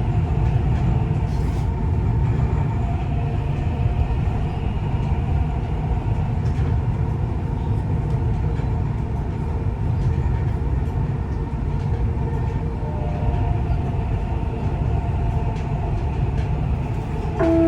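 Dubai Metro train running between stations, heard from inside the carriage as a steady rumble of wheels on track. A short chime of level tones starts near the end.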